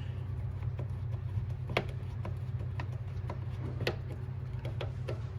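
A few light clicks and taps of an angle grinder's parts being handled during reassembly, over a steady low hum.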